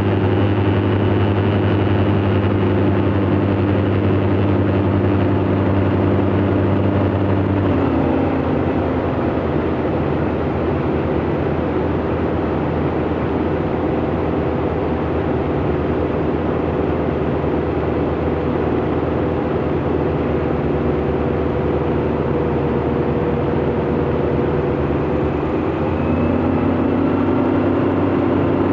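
Light aircraft's piston engine running steadily in flight; about eight seconds in the power comes back and the note drops lower and a little quieter, and near the end the power is brought up again and the note rises.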